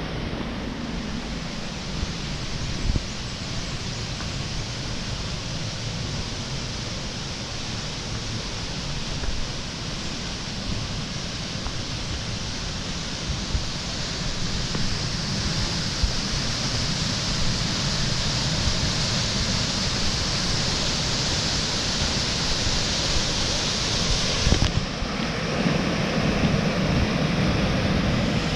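River water rushing over rocks, a steady rushing noise that slowly grows louder, with an abrupt change in its sound about 25 seconds in. The river is running high after rain.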